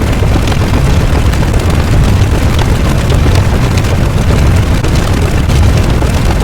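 Loud, continuous rumbling noise, heaviest in the low end, with no steady beat or tone: a rumble sound effect.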